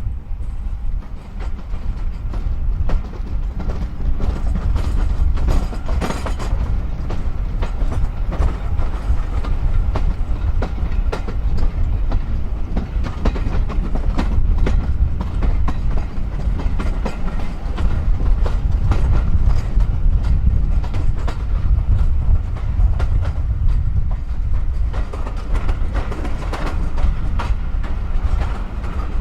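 Heritage railway train running along the line: a steady low rumble with frequent clicks of wheels over the rail joints.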